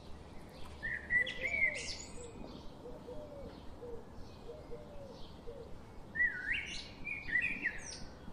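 Birds chirping in two short bursts, about a second in and again about six seconds in, with faint lower calls in between.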